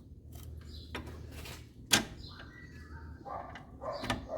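A sharp knock about two seconds in, among fainter clicks and clatter, from levering the anti-roll bar and its bushing clamp into place under the car.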